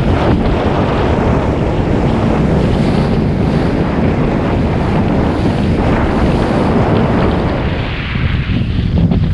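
Strong gusting wind buffeting the microphone, a loud steady rumble, with waves splashing around the boat.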